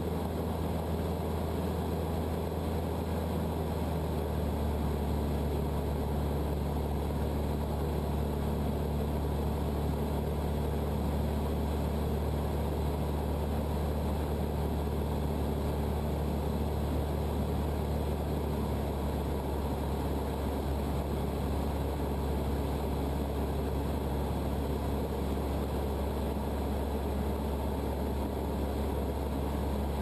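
Cessna 152's four-cylinder Lycoming engine and propeller droning steadily in flight.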